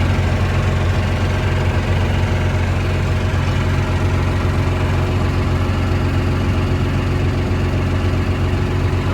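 Diesel engine of a forestry processor idling steadily, warming up just after a cold start.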